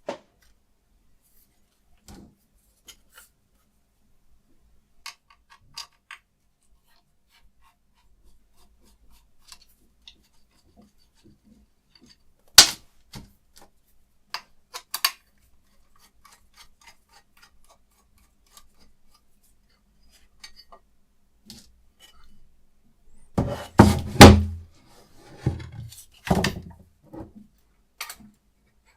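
Scattered clicks and knocks from a guided knife-sharpening system being handled and set up, with one sharp click about halfway and a run of louder clunks and thuds near the end. There is no steady stroking of a stone across the blade.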